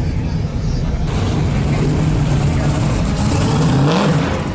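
Car engine running at a low, steady idle, with a brief rev that rises and falls near the end.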